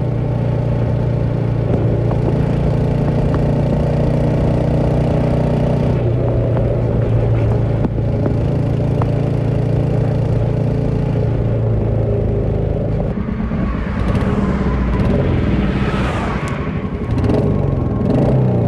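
Royal Enfield Meteor 350's single-cylinder engine running through a chrome slip-on silencer while the bike is ridden. The exhaust note holds steady, steps in pitch about a third of the way through, and rises and gets louder near the end as the engine revs up.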